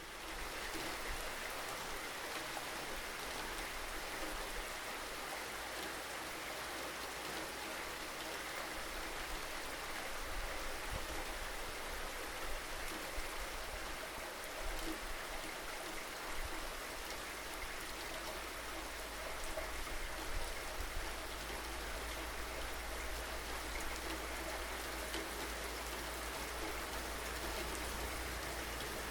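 Steady rain falling, an even patter with a constant low rumble underneath.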